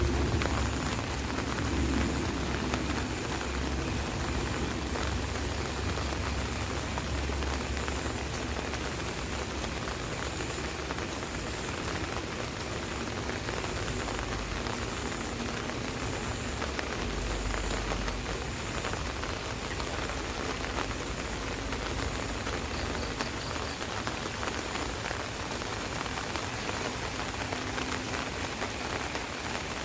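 Steady rain pattering on an umbrella, a dense even hiss of drops. A low rumble sits under it, strongest in the first few seconds and fading, with a brief return a little past halfway.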